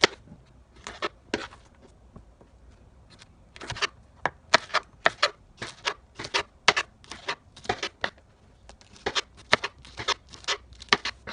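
Kitchen knife slicing green peppers thinly on a cutting board: a run of sharp taps of the blade against the board at a few strokes a second, with a short lull about two seconds in.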